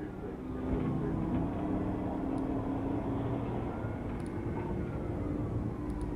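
Police car siren wailing, slowly rising and falling, over steady engine and road noise from a patrol car in a high-speed pursuit.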